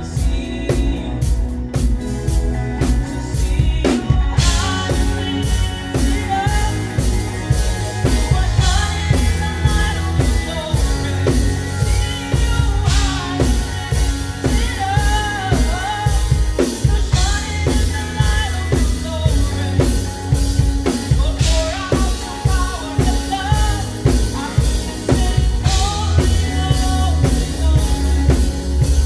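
Live praise music from a band: a drum kit keeps a steady, busy groove over a heavy bass line, and a bending sung melody comes in about four seconds in.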